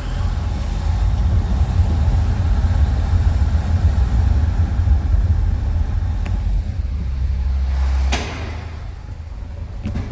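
A loud, steady low rumble that stops suddenly with a sharp click about eight seconds in, leaving a quieter hum.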